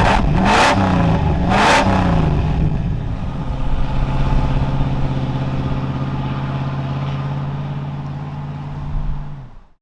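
Jeep CJ-7's 5.9-litre AMC 360 V8 with a Holley four-barrel carburettor, revved in a few quick blips and then settling to a steady rumbling idle.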